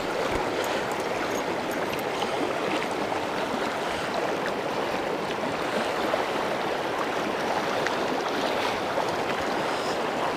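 River water rushing steadily over rocks: the even, continuous noise of a flowing trout stream.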